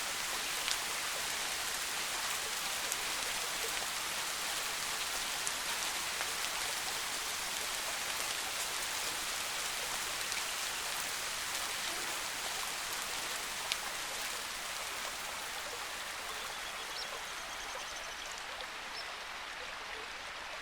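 Steady soft rain falling in a forest, with single drops ticking now and then. It fades slightly near the end.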